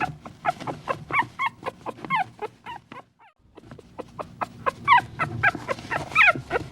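Puppies whimpering and yipping in quick short high calls, one after another, breaking off briefly a little past three seconds in before starting again.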